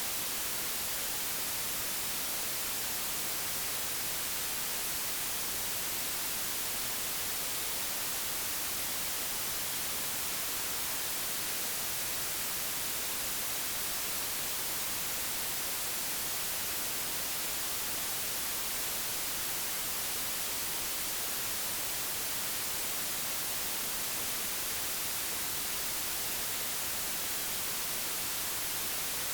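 Steady digitally generated white noise, an even hiss with no changes or events.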